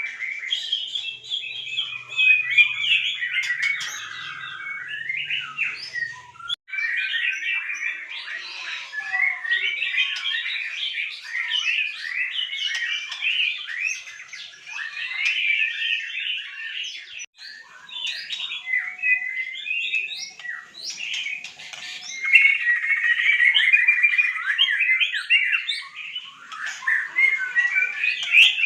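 White-rumped shamas singing: a dense, continuous run of varied chirping and warbling notes. The sound cuts out briefly twice.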